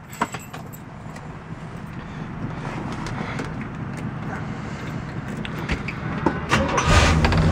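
Keys jangle, then the 1965 Oldsmobile 442's 400 V8 is cranked and catches about seven seconds in, settling into a steady idle through its dual exhaust.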